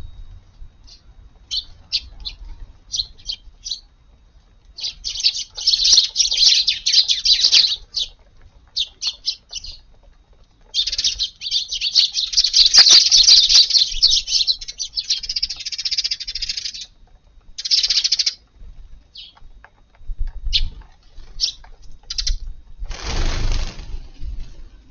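Eurasian tree sparrows chirping, short single chirps breaking into dense bouts of chattering from several birds at once. Near the end there is a brief broad rushing burst.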